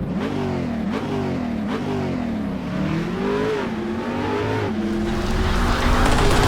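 An engine revving up and down several times, its pitch falling and rising again, then settling to a steadier tone near the end.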